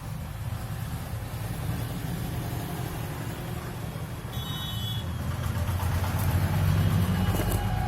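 Steady low rumble of road traffic, swelling near the end as a vehicle passes, with a brief high beep about four seconds in.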